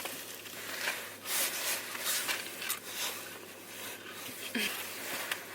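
Rustling and handling noises in short irregular bursts, over a low steady hum.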